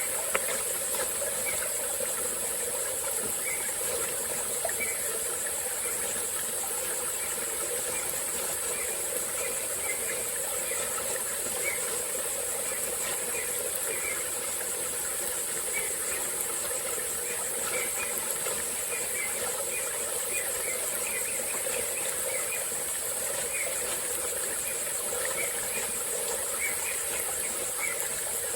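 Tropical forest ambience: a steady high-pitched insect drone over a small stream running, with scattered short chirps throughout.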